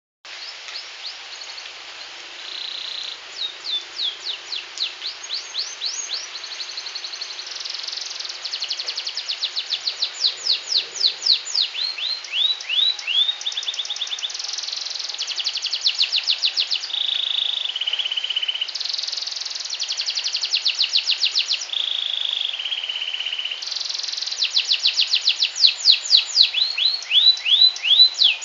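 Canary singing a long song of phrases that change every few seconds: runs of fast downward-sweeping notes alternating with rapid buzzy trills. It is a canary 'master' song, the kind of tutor recording played to teach other canaries to sing.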